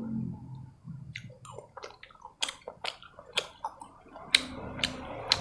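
Close-miked wet chewing of tteokbokki in sauce: a run of irregular mouth smacks and sticky clicks, the loudest a little past the four-second mark.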